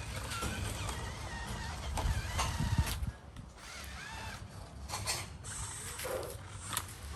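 RC truck's electric motor and gear drivetrain working, with whines that rise and fall, creaks and sharp clicks. The sound drops back for a moment about three seconds in.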